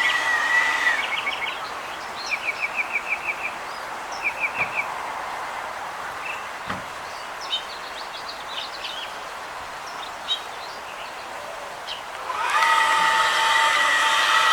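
A small bird gives two short rapid trills of repeated high notes, with a few scattered chirps, over steady outdoor background noise. About twelve seconds in, a loud horn begins sounding a steady chord of several held tones.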